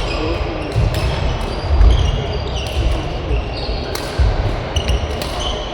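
Badminton doubles rally: several sharp racket hits on the shuttlecock, court shoes squeaking briefly on the floor, and heavy low thuds of players' footwork.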